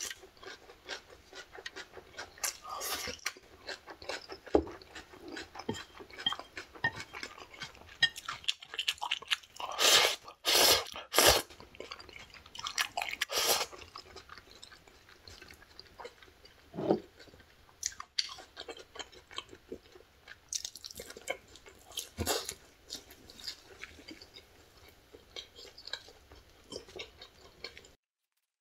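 Close-up mouth sounds of a person eating: chewing, with many small wet clicks and a few louder noisy bursts about ten and thirteen seconds in. The sound cuts off abruptly just before the end.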